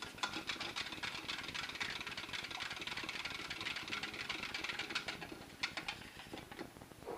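Whisk beating rapidly against a bowl in a fast, even ticking, mixing the egg yolk, mustard and garlic cream base for a mayonnaise. It stops near the end.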